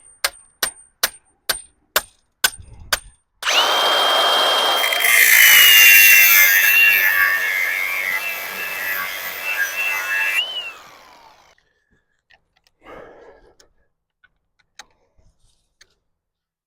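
A quick run of sharp clicks, about four a second, then a power tool starts abruptly and runs for about seven seconds with a high whine that sags a little under load, then winds down with a falling whine.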